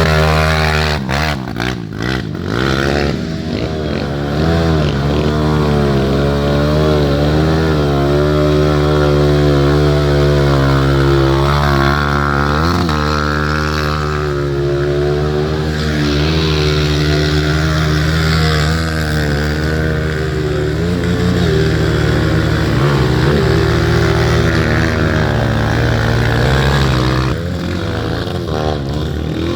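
Off-road trail motorcycle engines running, their pitch rising and falling as they are revved, with a few sharp clicks about a second or two in.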